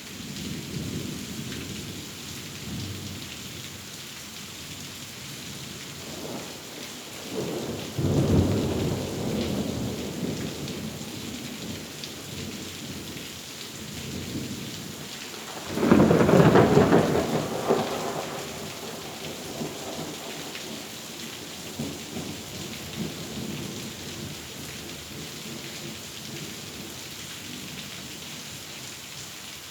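Thunderstorm: steady rain throughout, with two peals of thunder. A rolling rumble peaks about eight seconds in, and a louder, sharper clap about sixteen seconds in rumbles away over the next few seconds.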